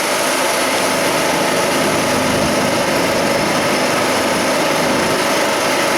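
Motocross dirt bike engines running, a steady, dense engine drone with no breaks.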